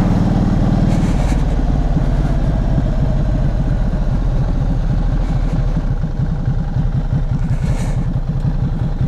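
Motorcycle engine running under way, its note dropping to a lower pitch about a second in and then holding steady.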